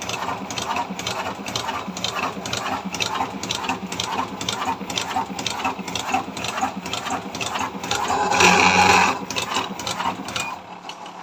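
Electric fully automatic cigarette rolling machine running, with a steady, rhythmic clattering of its mechanism and a louder burst about eight seconds in.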